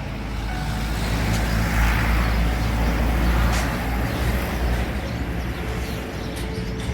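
A road vehicle passing by: a low rumble with tyre and engine noise that swells to its loudest about two to three seconds in and then fades.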